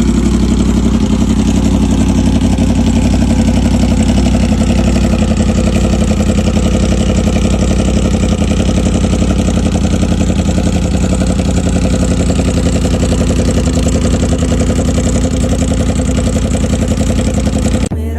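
Motorcycle engine running loudly and steadily, its exhaust giving a rapid, even train of firing pulses with little change in pitch, until it cuts off abruptly near the end.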